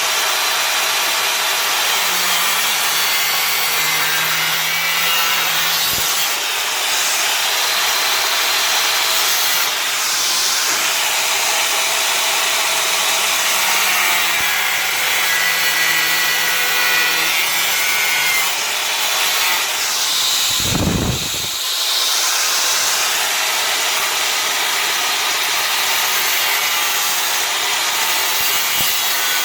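Angle grinder with a cutting disc running steadily and cutting sheet steel, a loud continuous grinding hiss, with a brief low thump about two-thirds of the way through.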